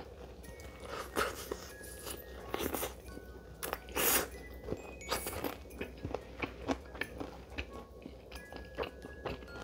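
Close-miked eating: biting into a sauce-glazed fried chicken drumstick and chewing the meat off the bone, in irregular bites and chews, the loudest about four seconds in.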